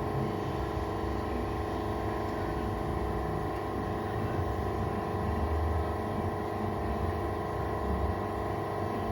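Press brake idling with its motor running: a steady hum of several held tones over a low rumble, unchanging throughout.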